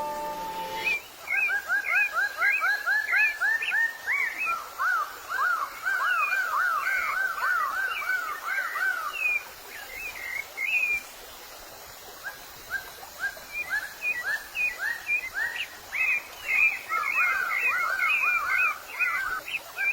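Songbirds singing: quick runs of rising whistled notes, several a second, with a lull of about three seconds midway before the song picks up again. A short stretch of music is heard in the first second.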